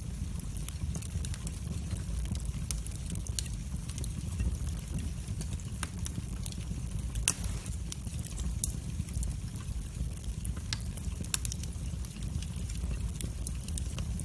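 Wood fire burning in a fireplace: a steady low rumble of flame with frequent, irregular sharp crackles and pops, the loudest pop about seven seconds in.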